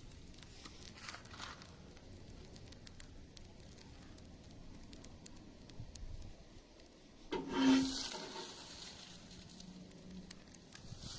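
Small wood fire crackling, with faint scattered pops and a low hiss. About two-thirds of the way in comes a brief, louder pitched sound.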